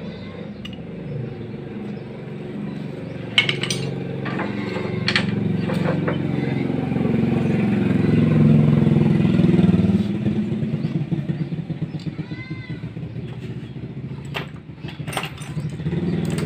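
A small engine running, growing louder toward the middle and then pulsing unevenly as it eases off, with a few sharp clicks.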